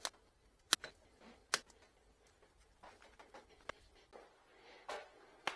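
A handful of sharp, isolated clicks and taps, about five spread across a few seconds, as tools are handled and set against a wooden workpiece on the bench.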